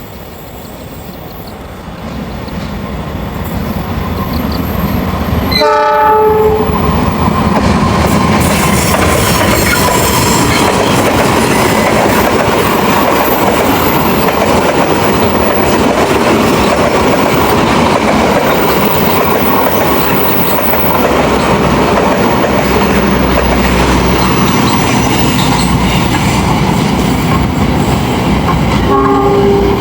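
An Indonesian passenger train passing close by: the rumble and wheel clatter build over the first six seconds, then hold as a steady loud run of carriages going past. A short horn blast sounds about six seconds in, and another brief horn near the end.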